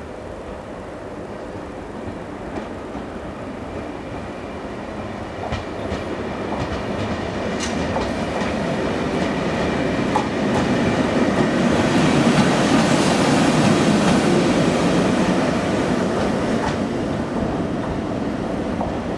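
A train running past on the rails, growing louder to a peak about two thirds of the way through and then easing slightly, with occasional sharp clicks of wheels over rail joints.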